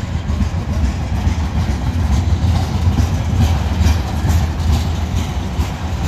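Freight train's tank cars rolling past, a steady low rumble with the steel wheels clacking on the rails.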